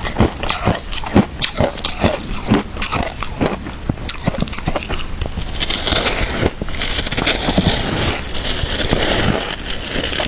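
Close-miked crunching and chewing of shaved ice, crisp bites about two to three a second at first, turning into a denser, steadier crunch in the second half.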